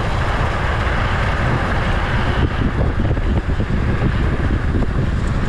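Heavy wind buffeting the microphone of a minibike ridden at speed, a loud steady rush with a low rumble underneath.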